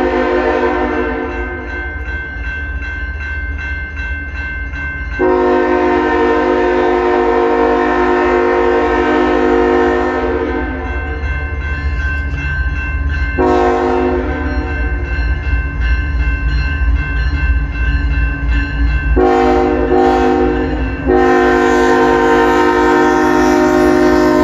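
CN freight locomotive's multi-chime air horn sounding a pattern of long, long, short, long blasts, the standard signal for a grade crossing, over the low rumble of the passing train.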